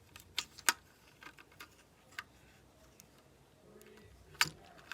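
Scattered, irregular sharp clicks and taps, the loudest about two-thirds of a second in and again near the end.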